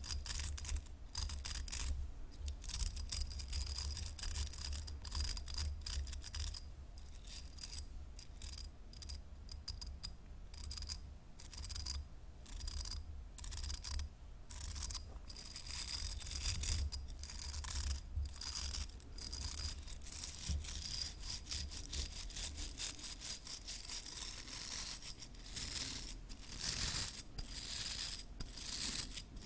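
Hairbrush bristles scratching and brushing in quick, irregular repeated strokes, with a steady low hum underneath.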